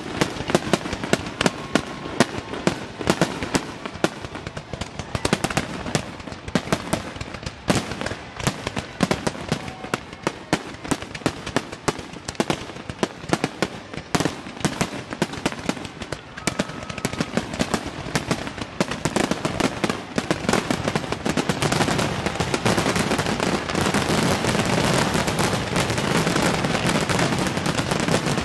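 Fireworks display: aerial shells bursting amid rapid crackling and popping, many reports a second. About two-thirds of the way through the reports thicken into a louder, near-continuous barrage.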